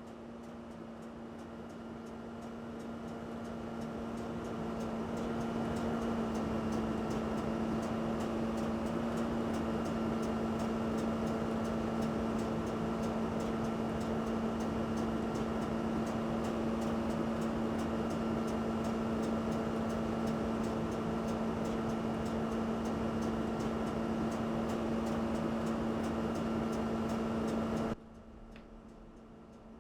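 Steady machine hum at one fixed pitch in a train cab, swelling over the first several seconds and cutting off suddenly near the end, with a regular light ticking underneath.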